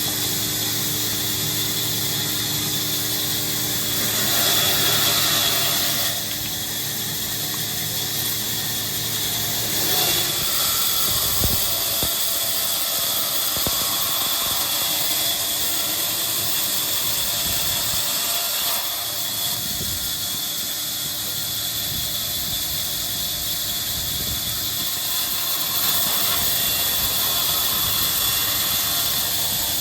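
Woodworking machinery running steadily, a loud hiss over a machine hum. It swells briefly about four seconds in and again near the end.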